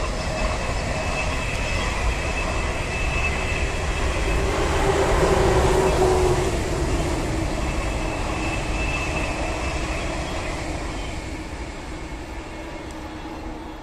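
ICE high-speed electric train passing at speed: a steady rush of wheels and air with a held hum. It swells to its loudest about five to six seconds in, then fades as the train moves away, the hum dropping slightly in pitch.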